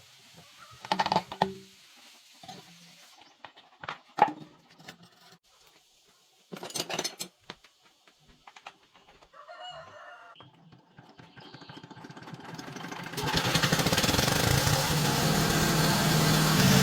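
A few sharp clunks and knocks with chickens clucking, then about thirteen seconds in the repaired old diesel engine starts and runs steadily and loudly.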